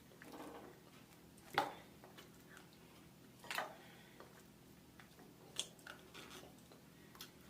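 A person eating close to the microphone: quiet mouth and chewing sounds broken by a few short sharp clicks, the loudest about one and a half seconds in.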